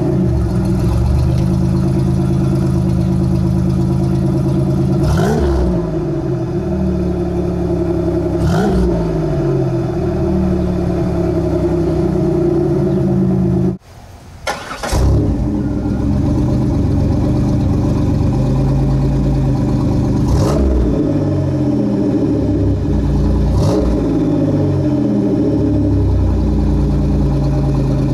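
Supercharged GM 3800 V6 in a Pontiac Fiero, exhaust through a Flowmaster muffler, idling after a cold start and blipped twice, each rev rising and falling back quickly. About 14 seconds in it stops, and after a brief gap it is started again, catching and idling with two more short revs.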